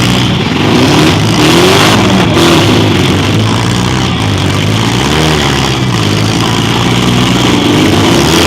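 Demolition derby car engines revving, their pitch rising and falling over and over, with more than one engine at once, over a steady hiss.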